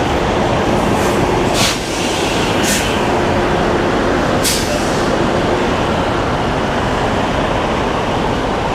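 Semi truck's diesel engine running, a steady loud rumble, with a few short, sharp hisses or clicks over it.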